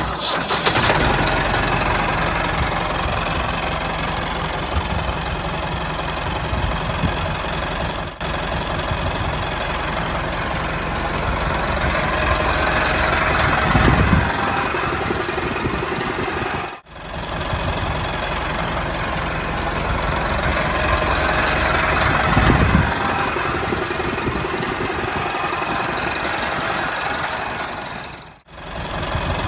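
Small engine of a handmade mini MF385 tractor model running steadily with a knocking, idling-type beat, in several takes joined by short breaks, and swelling louder a couple of times.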